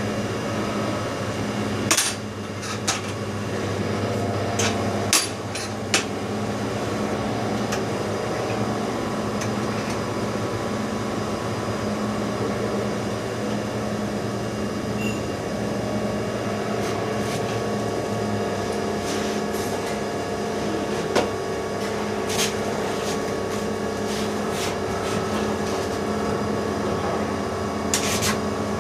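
Steady machine hum with a few sharp metallic taps and knocks scattered through it, as during maintenance work on a CNC machine.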